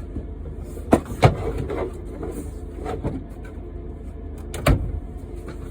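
Tools and boxes being handled in a work truck's bed, with a few sharp knocks about a second in and another near the end, over a steady low rumble.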